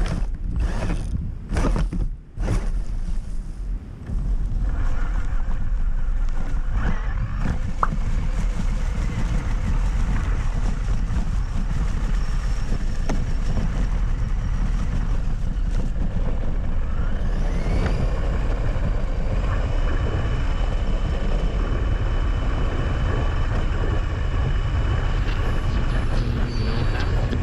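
Steady low rumble of a vehicle running, with faint steady whining tones joining in about two-thirds of the way through. The sound breaks up several times in the first few seconds.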